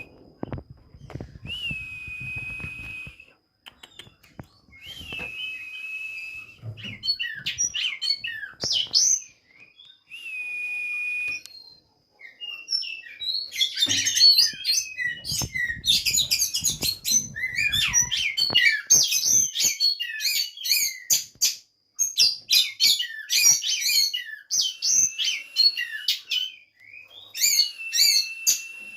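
Oriental magpie-robins (kacer) singing: a few long, level whistles at first, then from about halfway a fast, varied song of many quick notes.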